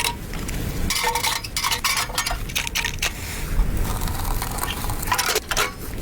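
Irregular crunching and scraping strokes, clustered near the start and again near the end, over a low rumble of wind on the microphone.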